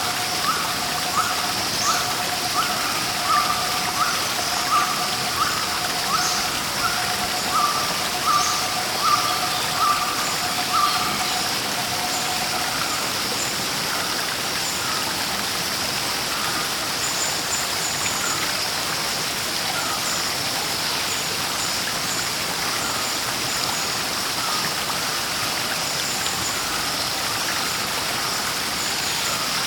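Rushing water of a waterfall, a steady hiss. Over it a bird repeats a short call at an even pace, about twice a second, stopping about twelve seconds in. Faint high chirps of other birds continue throughout.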